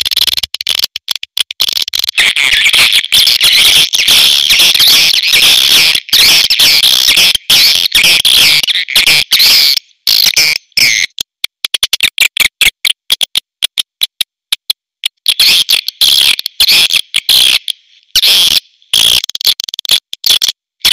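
Swiftlet calls played as a lure for a swiftlet house: a dense, high twittering chatter laced with rapid clicks. The chatter breaks into scattered clicks about halfway through and builds again near the end.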